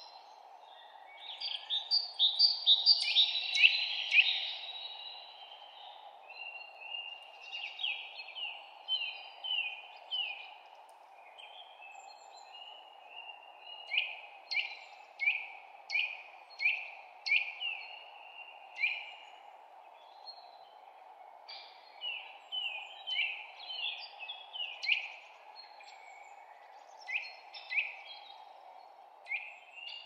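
Small birds chirping and singing in quick runs of short, downward-sliding notes, busiest and loudest a couple of seconds in, over a steady low background hum.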